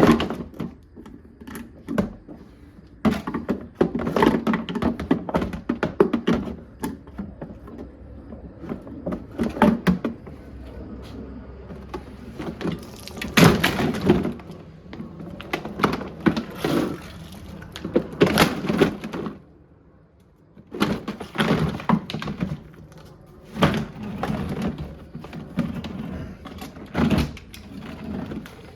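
Plastic housing and parts of a portable washing machine being smashed and broken apart: repeated knocks, cracks and clattering in runs, the loudest crack about 13 seconds in, with a short lull around 20 seconds.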